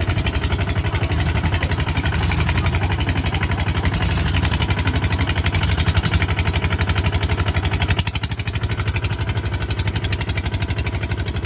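Tractor engine running steadily while being driven, with a rapid, even chugging. It gets slightly quieter about eight seconds in.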